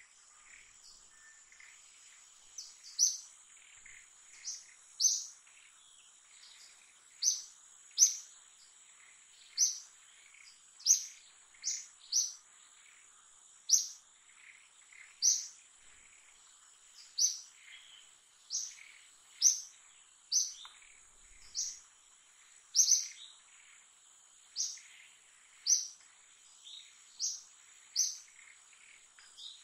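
A bird's short, sharp, high chirps repeated about every second or two, over a steady faint high-pitched insect drone.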